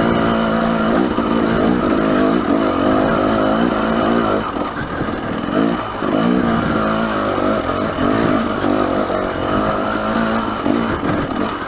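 Dirt bike engine running under load, its pitch rising and falling again and again as the throttle opens and closes.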